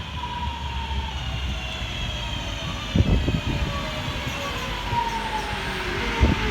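Class 323 electric multiple unit arriving: its traction motors whine in several tones that fall slowly in pitch as it slows, over a low rumble. A couple of short low thumps come about three seconds in and near the end.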